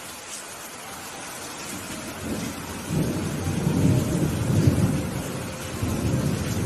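Steady rain with a rolling rumble of thunder that builds about two seconds in, peaks in the middle and fades away near the end.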